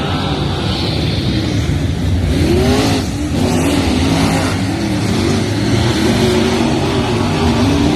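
A race car engine running hard, its pitch rising and falling over and over as it revs up and lets off.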